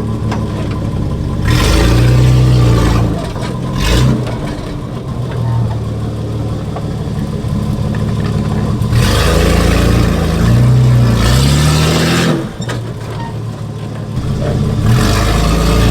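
Nissan GQ Patrol's TB42 carburetted straight-six running with no exhaust, revving up and easing off again and again as the four-wheel drive is driven along in two-wheel-drive low. Louder bursts of throttle come a couple of seconds in and again just past the middle.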